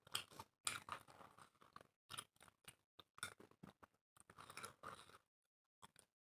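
Close-miked eating: chewing dry roti with chicken and tearing the bread by hand, a run of short crackly, wet mouth and bread sounds that thins out to a few clicks about five seconds in.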